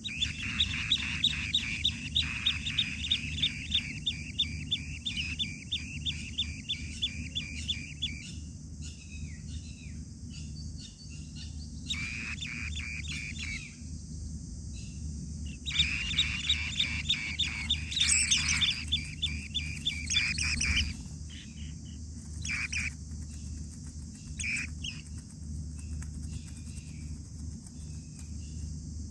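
Birds chirping in fast runs of high notes, about five a second, in three long bouts with scattered single notes after, over a steady high hiss.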